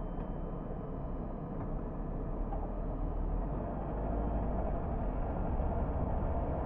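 A car driving along a road: a steady rumble of engine and tyres that grows a little louder in the second half.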